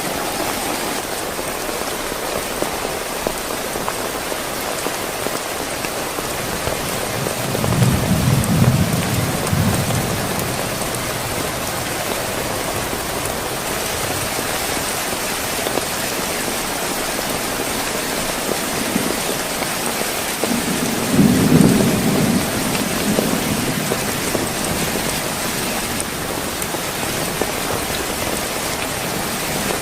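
Heavy rain falling steadily, with thunder rumbling twice, about eight seconds in and again about twenty-one seconds in.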